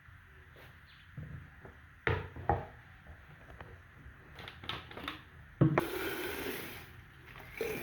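Light knocks and clatter of objects being handled, with a sharper knock and a short rushing noise lasting about a second, a little over five seconds in.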